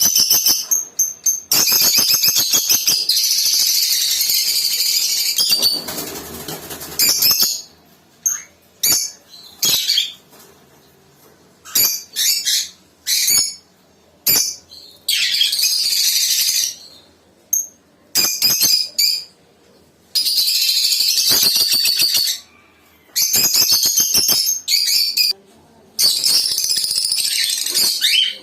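Red opaline rosy-faced lovebird chattering in repeated bouts of shrill, rapid chirps, each bout lasting a second or few, with short pauses between.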